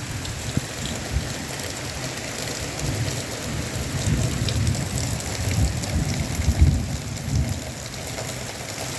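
Heavy rain pouring steadily in a thunderstorm, with low rumbling thunder that swells through the middle and is loudest about six and a half seconds in.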